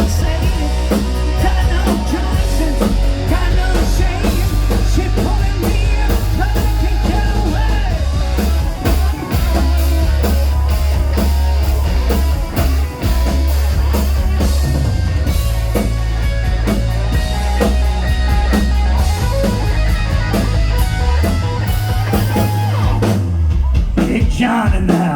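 Live rock band playing: drum kit, guitars and bass, with singing. The heavy bass line drops out about two seconds before the end.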